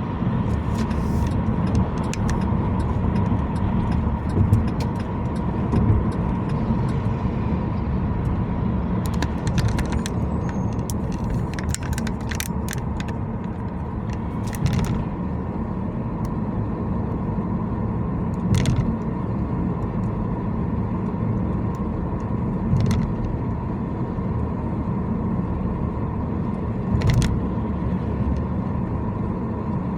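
Car driving on city streets: a steady low rumble of road and engine noise, with a faint steady hum and a few short rattles or clicks scattered through.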